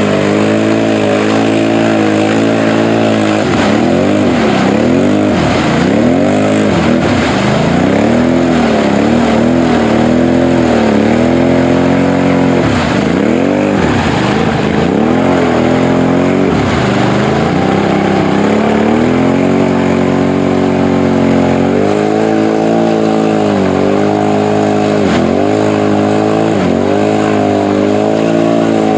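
Off-road vehicle engine running and revving, its pitch rising and falling over and over, a steadier stretch around the middle.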